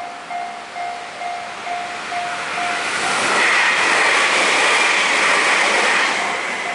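Level-crossing warning bell dinging about twice a second as a train passes. The train's rushing noise builds from about three seconds in and drowns the bell, then eases near the end.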